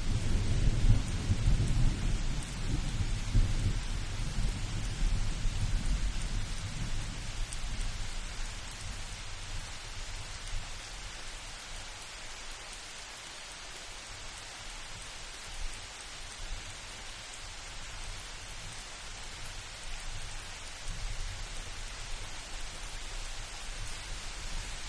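Steady rain falling, with a roll of thunder rumbling loud at first and fading away over the first several seconds. A faint low rumble returns near the end.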